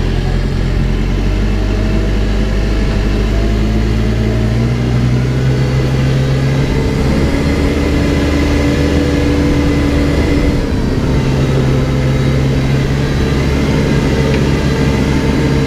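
Backhoe's diesel engine running steadily, speeding up about four seconds in as it works under load, easing off briefly about two-thirds of the way through, then picking up again.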